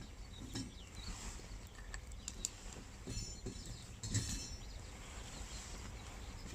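Small wood campfire crackling, with scattered pops and snaps and a few soft knocks.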